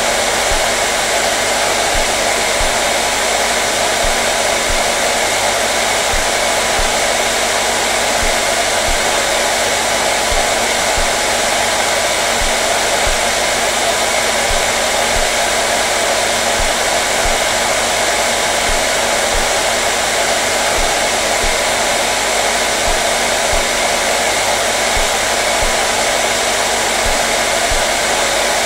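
Hair dryer running steadily on one setting, an even rushing blow with a faint hum under it, used as continuous white noise for soothing babies to sleep.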